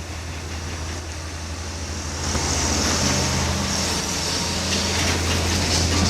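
Dump truck's diesel engine labouring up a steep hill, a steady low drone that grows louder about two seconds in.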